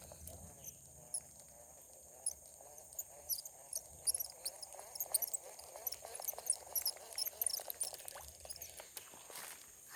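Insects droning steadily in a high-pitched chorus, with short chirps over it and a warbling trill lower down, typical of frogs calling.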